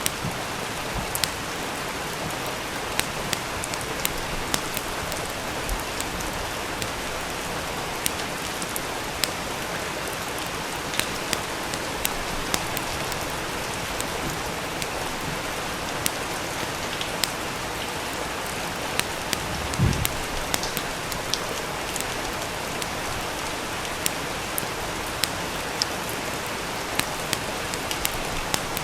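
Steady rain hiss with irregular sharp crackles and pops from a wood fire. One low, soft thump about two-thirds of the way through.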